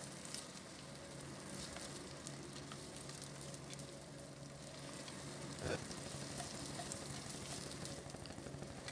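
Diced red onion, garlic and ginger sizzling faintly in oil in a clay pot while a wooden spatula stirs them, with a single light knock a little past halfway.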